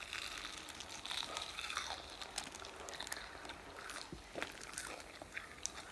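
Crunchy bites and chewing of crispy Kyochon Honey Combo fried chicken, a run of short crackling crunches.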